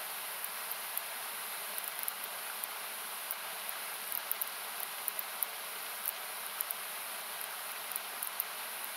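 Steady rush of a nearby river or small waterfall, equalised so that it sounds like hiss, with the wood campfire's faint crackles and pops coming irregularly, several a second at times.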